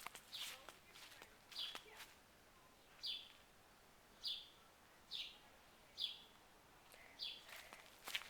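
A small bird chirping outdoors: short, high, downward-sliding chirps repeated about once a second, with a few faint clicks in between.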